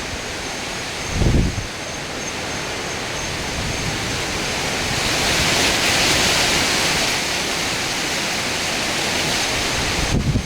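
Hurricane wind and heavy rain make a steady rushing noise that swells in a strong gust near the middle. About a second in, a short low rumble of wind hits the microphone.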